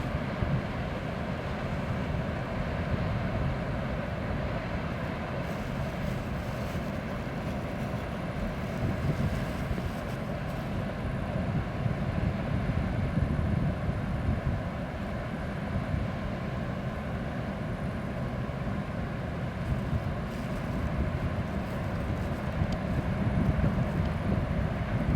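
Steady low rumble of a passing ship's engine across the water, with wind buffeting the microphone.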